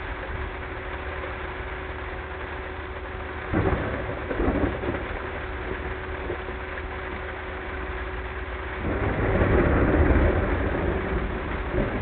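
Thunder and rain heard from inside a car over its steady engine and road noise: a sudden clap about three and a half seconds in, then a longer, louder rumble from about nine seconds that dies away near the end.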